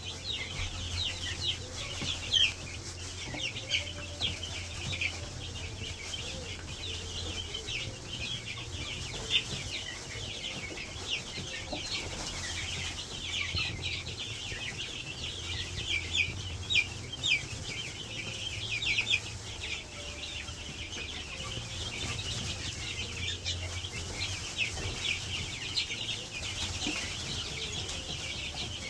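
A flock of two- to three-week-old chicks (Cornish Cross, Freedom Ranger and Bresse broilers) peeping constantly, many short high peeps overlapping, over a steady low hum.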